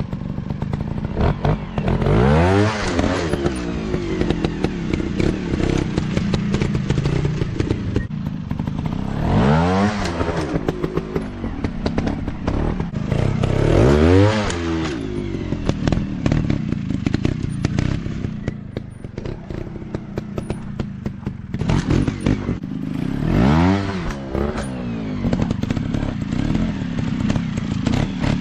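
Off-road dirt bike engines revving hard in repeated bursts. The pitch climbs and drops about four times, with many sharp knocks and clatters in between.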